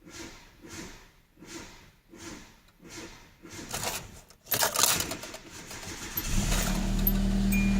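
2006 Kia Rio's 1.6L four-cylinder engine being started: a loud burst of starter cranking about four seconds in as the engine catches, then settling into a steady idle. Near the end a short high warning chime sounds from the car.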